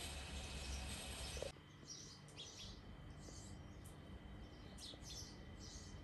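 Faint chirping of small birds, with short high calls coming in quick clusters over a steady background hiss. The hiss drops suddenly about a second and a half in.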